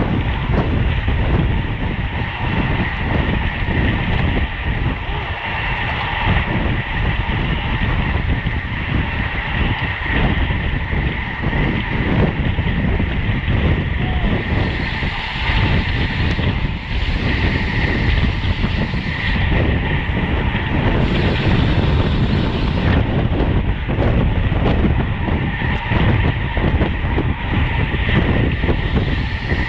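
Wind rushing over the microphone of a bicycle-mounted camera while riding, a steady loud rumble with road and drivetrain noise underneath.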